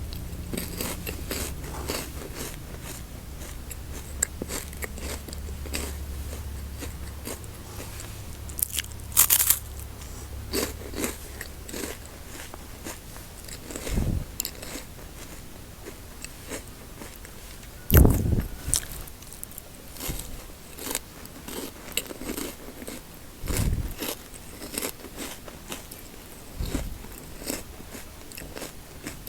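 Close-miked biting, crunching and chewing of chocolate snack bars, with sharp crisp crunches and several dull thumps among them.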